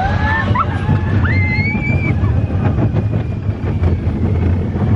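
Steady low rumble of a moving ride vehicle, with a few high rising squeals in the first two seconds.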